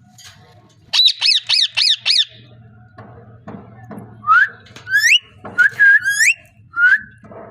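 Parrot calling: a quick run of five harsh squawks about a second in, then several short rising whistles in the second half.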